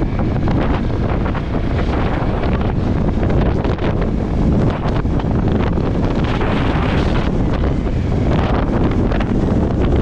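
Strong wind blowing across the microphone: loud, steady rumbling wind noise.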